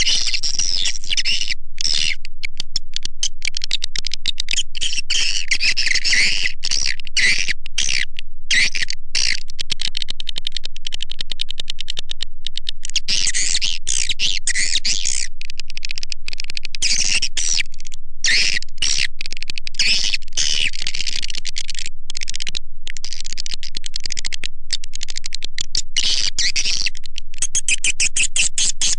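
Swiftlet lure call: a recording of edible-nest swiftlets twittering, dense and rapid high-pitched chirps with no pauses, played back to draw swiftlets into a nest house.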